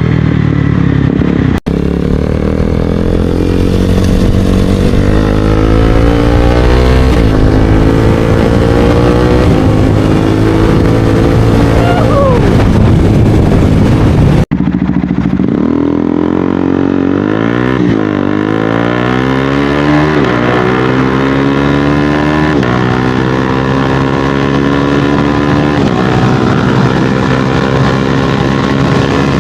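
KTM 250 Duke's single-cylinder engine through an MSH G4 slip-on exhaust, accelerating with the engine pitch climbing and dropping back again and again as it shifts through the gears. The sound cuts out for an instant twice, about a second and a half in and about halfway through.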